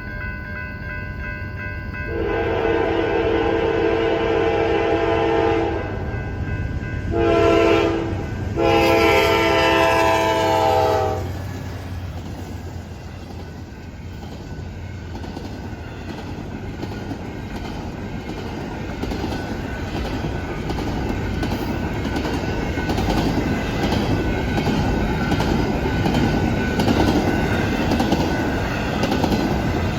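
Freight train's air horn sounding at the crossing: a long blast, a short one and another long one. Then the train passes, its wheels clicking over the rail joints in a steady rhythm that gets louder toward the end.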